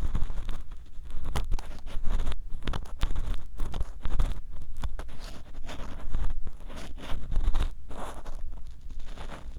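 Ear pick scraping and rubbing inside a binaural dummy-head microphone's ear, very close and with strong low rumble: irregular strokes with crackling clicks, rising and falling about every half second.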